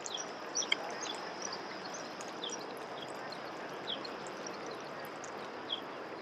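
Birds chirping in the open air, short falling chirps repeated every second or two over a steady background hiss. Two sharp clicks come a little over half a second in.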